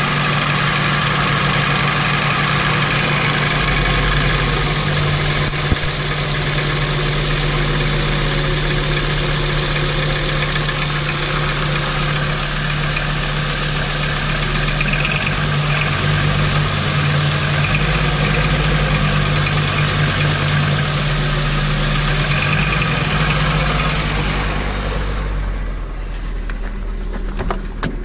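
VW T4's 2.5 AAF five-cylinder petrol engine running steadily with the knock the owner is hunting: it persists after each spark plug cap has been pulled in turn, so a misfiring cylinder is not the cause. Near the end the sound turns duller.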